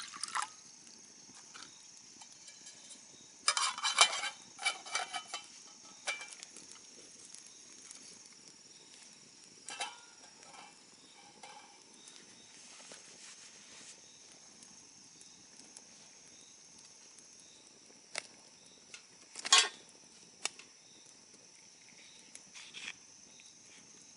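Scattered clinks and knocks of camp cookware being handled after the meal: a cluster of them about four seconds in and a single sharper knock near the end. A steady high thin whine runs underneath.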